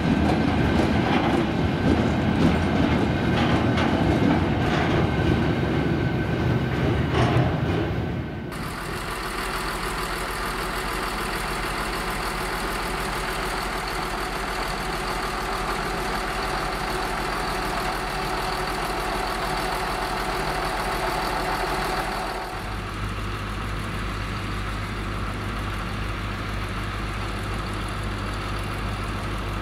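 Freight train of dump cars and tank cars rolling past, wheels clacking over the rail joints. A third of the way in it cuts to the steady running of an RA1 diesel railbus standing at the platform, its engine idling, with a steadier low hum added near the end.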